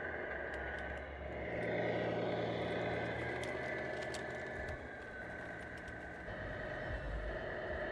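Radio-controlled Tamiya Freightliner Cascadia semi truck running, a steady mechanical drone with a low hum. The hum changes pitch about a second and a half in, drops away near the middle and swells again near the end, with light clicks throughout.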